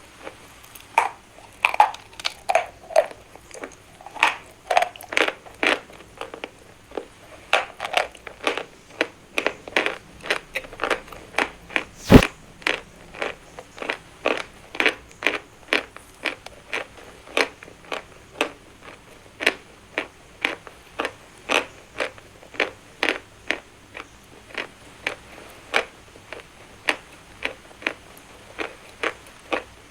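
Someone biting and chewing dry chalk close to the microphone: a run of short, crisp crunches, about two a second. There is one sharp, much louder crack about twelve seconds in.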